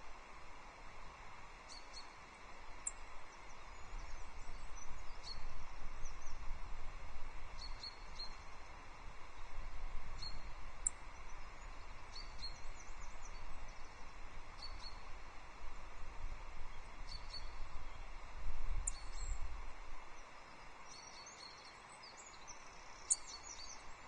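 Wind rumbling and hissing on an outdoor nest-camera microphone, swelling and easing in gusts, with short, high calls from small birds scattered throughout.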